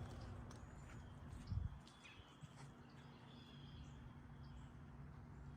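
A 2007 Bard wall-hung heat pump winding down at shutdown: the last of its low rumble fades out with a low thump about a second and a half in. Then only a faint steady hum and scattered bird chirps remain.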